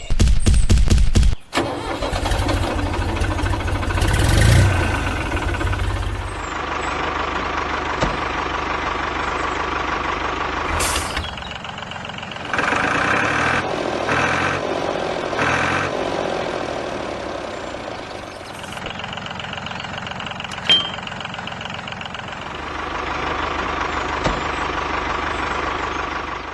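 Small engine of a DIY mini tractor, opening with about a second and a half of loud, rapid knocking strokes, then running on steadily. Its pitch and level change suddenly several times.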